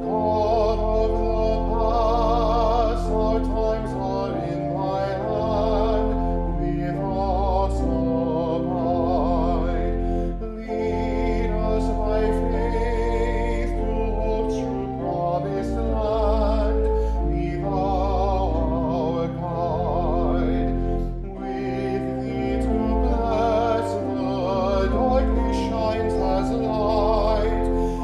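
Church music: singing with wide vibrato over an accompaniment of sustained, held low notes, continuing without a break apart from brief dips between phrases.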